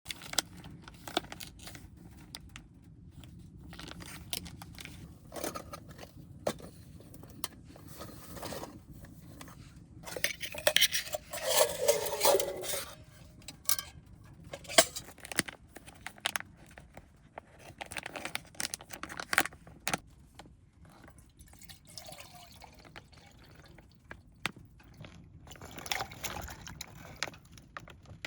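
Cookware being handled with scattered clinks and knocks, and liquid poured into a cooking pot for about two seconds near the middle: broth for oden being put in to heat.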